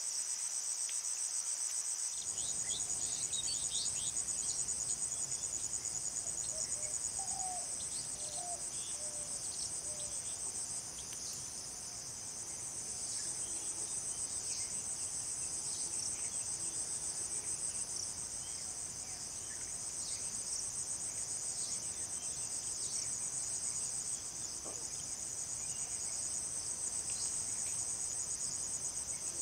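A steady, high-pitched, finely pulsing chorus of insects, with a few faint short chirps over it.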